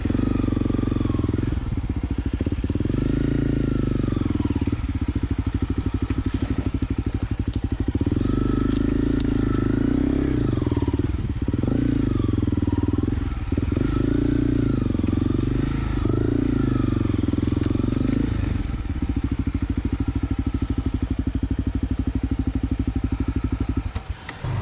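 Dual-sport motorcycle engine running at low speed, the revs rising and falling repeatedly as the bike is worked slowly over rough trail.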